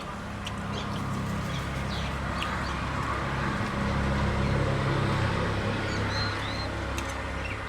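A low droning hum that swells to its loudest about halfway through and then eases off, with a few short bird chirps over it.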